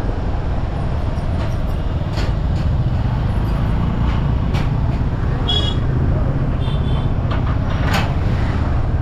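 Steady low rumble of riding a motorbike through street traffic, engine, tyres and wind together. A few sharp clicks come through it, and short high-pitched tones sound about halfway through.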